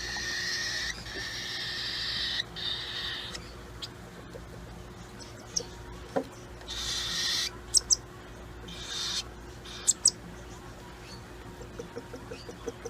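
Baby cockatiel's raspy, hissing begging calls while being fed, in bursts: a long one over the first three seconds, then shorter ones about seven and nine seconds in, with a few sharp clicks between.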